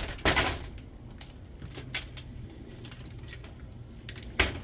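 Small metal scrap parts clattering and clinking as they are handled and set down: one clatter just after the start, a light knock about two seconds in, and another clatter near the end.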